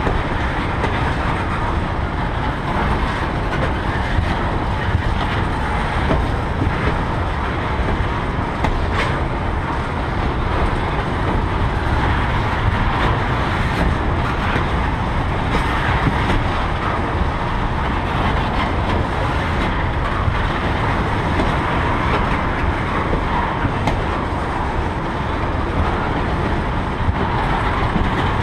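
Freight train tank cars rolling past: a steady rumble of steel wheels on rails, with a few faint sharp clicks.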